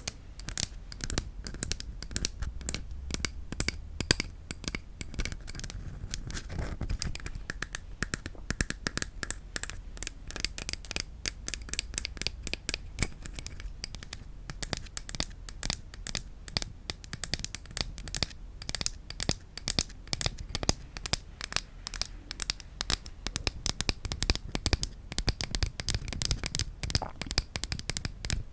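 Wooden objects tapped rapidly by hand, a dense, continuous stream of small sharp clicks.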